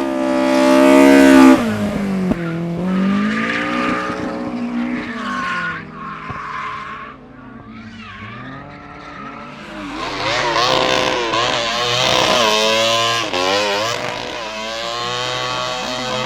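Racing car engine running hard, loudest about a second and a half in, then its revs climbing and dropping several times; from about ten seconds in the revs swing up and down in quick blips.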